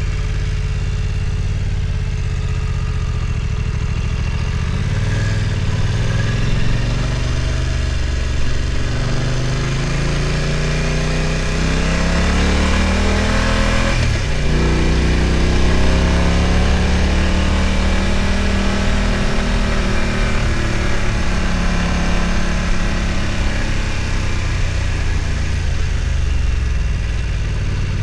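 BMW F900 XR's parallel-twin engine running under way. The revs climb for several seconds to a short break about halfway through, then run on at a steadier pitch and ease off near the end.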